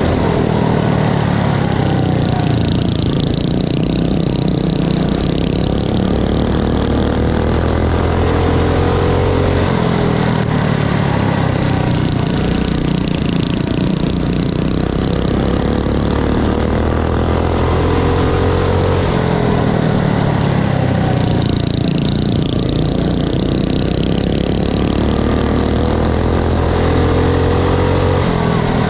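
Mini bike engines running hard in a dirt-track race. The pitch climbs and drops about every eight to ten seconds as the throttle opens on the straights and eases off.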